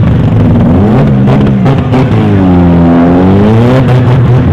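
Engines of front-wheel-drive stock demolition derby cars running hard and revving. Around the middle, one engine's pitch drops and then climbs again. A few sharp knocks are also heard.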